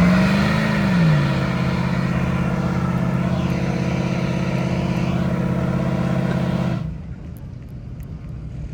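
Truck engine revving briefly, then held at a steady high rev for several seconds before cutting off abruptly near the end.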